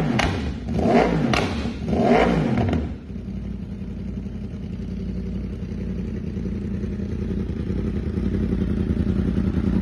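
Yamaha R1M's crossplane inline-four through an Austin Racing exhaust, blipped three times in quick succession and then settling to a steady idle.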